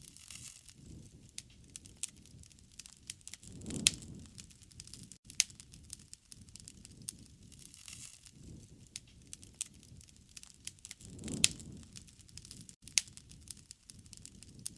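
Wood campfire crackling, with frequent sharp pops and snaps over a low rumble of burning. Twice, about seven and a half seconds apart, the flames swell louder and a loud pop rings out.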